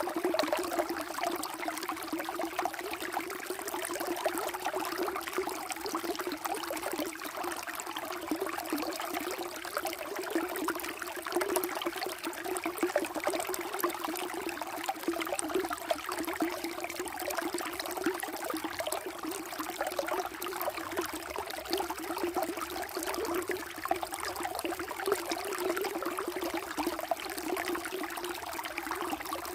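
Water flowing and trickling steadily, a continuous splashing rush with no breaks.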